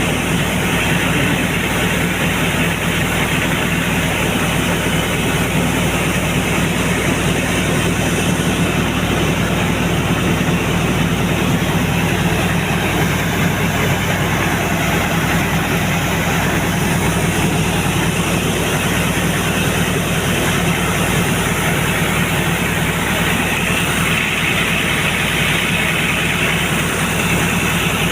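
Air compressor running steadily under constant load while blowing water out of a borewell to clean it.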